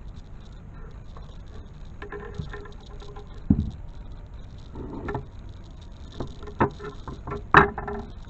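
Hand work on metal parts: scattered clicks, knocks and light clinks, some ringing briefly, with the loudest knocks about three and a half seconds in and near the end.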